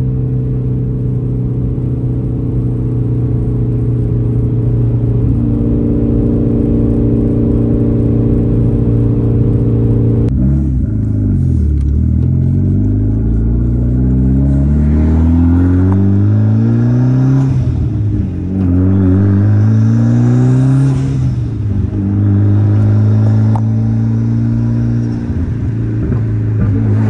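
Mitsubishi Lancer Evolution X Final Edition's turbocharged 2.0-litre four-cylinder, with full titanium exhaust and open dump, droning at a steady cruise. About ten seconds in, the sound changes to the engine revving up in several pulls, dropping back at each gear change, then settling steady again near the end.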